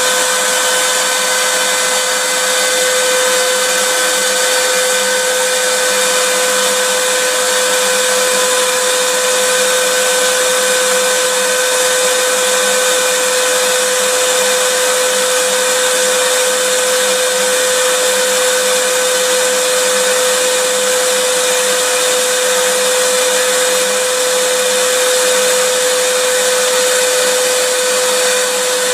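Vacuum cleaner running steadily: a constant rushing noise with an unchanging whine in it.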